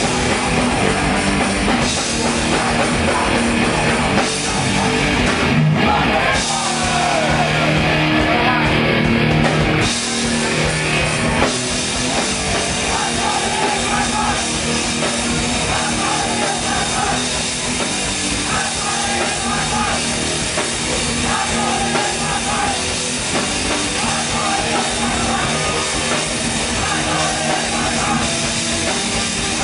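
Hardcore band playing live at full volume: distorted guitars and a pounding drum kit, steady throughout.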